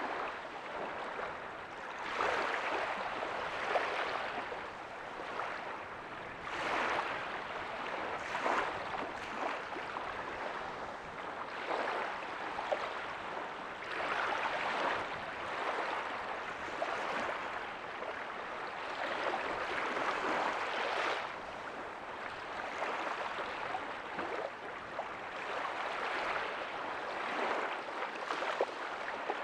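Small ocean waves breaking softly on a beach, a steady wash of surf that swells and eases every few seconds.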